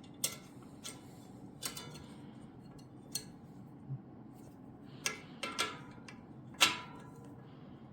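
Irregular metallic clicks and clinks from spoke-truing work on a Shimano Dura-Ace R9100 wheel: a spoke wrench on the nipples and the spokes ticking, about eight sharp strikes with short ringing, the loudest a little over six seconds in.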